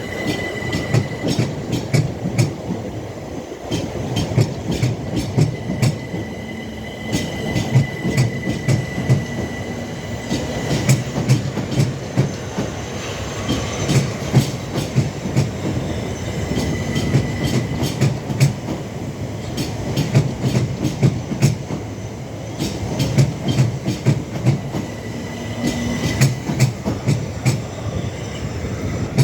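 Passenger train moving along the platform, its wheels clicking and knocking over rail joints and pointwork with a steady rumble, and a thin high squeal that comes and goes.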